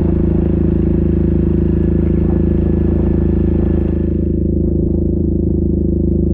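Yamaha Grizzly 700 ATV's single-cylinder engine running at a steady, unchanging speed while riding through snow, with a rattling clatter over it that thins out about four seconds in.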